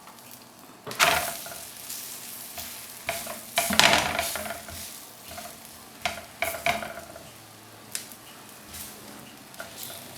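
Stuffed paratha on a hot chapati griddle with a soft sizzle, broken by several sharp knocks and scrapes of handling and utensils about a second in, around four seconds, around six seconds and near eight seconds.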